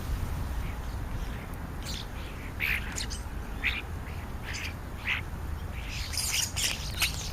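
Birds calling: scattered short squawks and chirps, coming thicker near the end.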